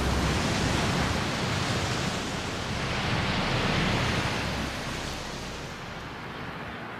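A loud, even rushing noise that swells about three to four seconds in, then fades.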